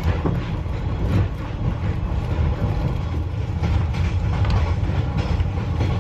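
Passenger train running: a steady low rumble with irregular clicks and knocks.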